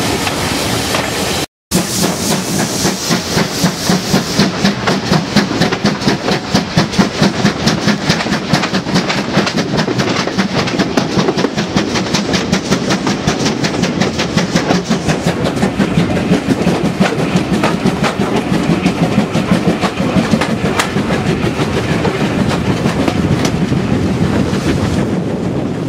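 Train running along jointed track, heard from a carriage window: the wheels clatter over the rail joints in a fast, even clickety-clack over a steady rumble. The sound cuts out briefly about a second and a half in, then the clatter carries on.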